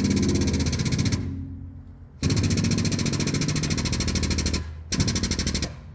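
Rapid, even mechanical hammering from a power tool in three bursts, pausing for about a second after the first and briefly near the end.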